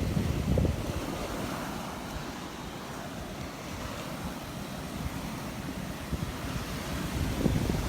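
Gulf of Mexico surf washing onto the beach, with wind buffeting the microphone in gusts that are strongest about half a second in and near the end.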